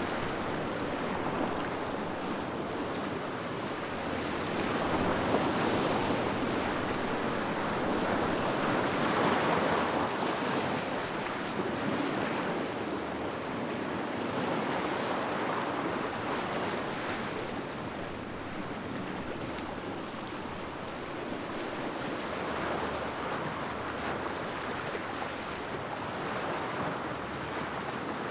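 Sea waves washing ashore in a continuous surf, swelling and easing every few seconds, with some wind noise on the microphone.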